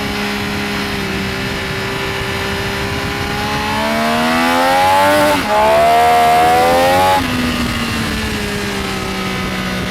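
Benelli Tornado Tre 900's inline three-cylinder engine on track: the note holds steady, then rises under acceleration, breaks briefly about five and a half seconds in, climbs again and drops away about seven seconds in as the throttle closes.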